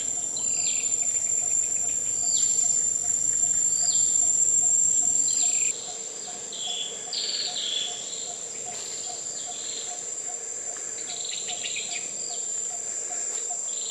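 Insects shrilling in a steady high-pitched drone, with a bird giving short falling calls again and again over it. A low rumble underneath cuts off suddenly about six seconds in.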